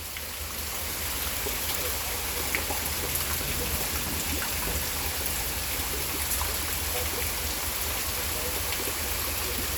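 Steady rain falling during a thunderstorm: an even hiss with faint scattered drop ticks.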